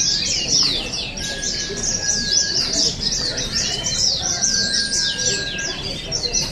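White-eyes (pleci) singing: a dense, fast, unbroken stream of high chirping song from several birds. A plain, steady whistled note about a second long comes in three times.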